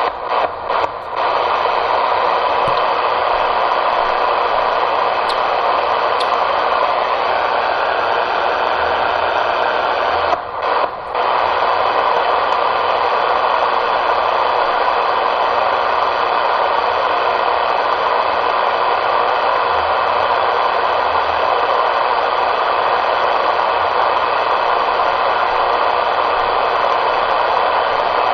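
CB radio receiver hissing with steady loud static through its speaker. The static cuts out briefly a few times just after the start and twice about ten and a half seconds in.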